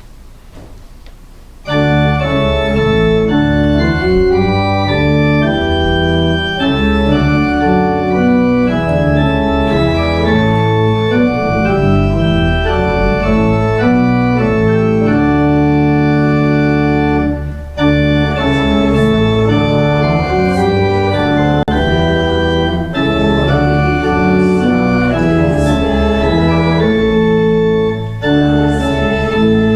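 Church organ playing a hymn tune in full sustained chords, starting about two seconds in, with brief breaks between phrases.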